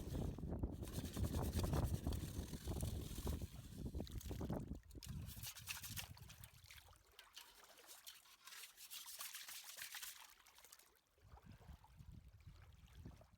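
Wind buffeting the microphone with a loud low rumble for the first few seconds, then quieter water trickling and splashing with a hissing patter.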